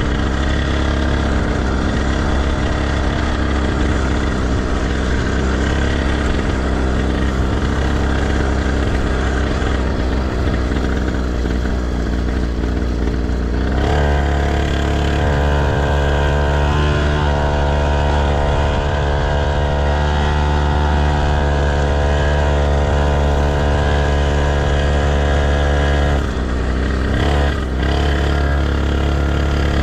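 Motocross bike engine running, its note held at a steady pitch for about twelve seconds around the middle, over a heavy low rumble.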